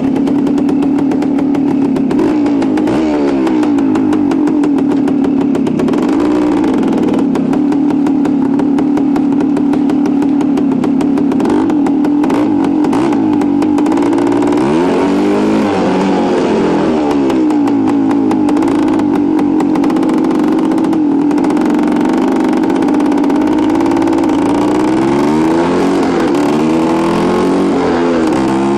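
1973 Suzuki TS250's two-stroke single-cylinder engine running while the bike is ridden. Its pitch rises and falls several times as the throttle is opened and closed.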